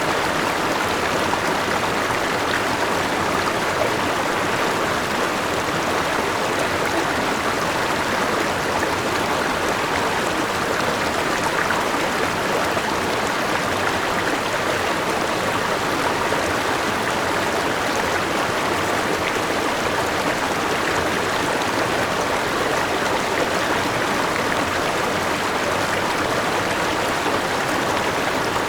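Forest river flowing over a small waterfall: a steady, even rush of water.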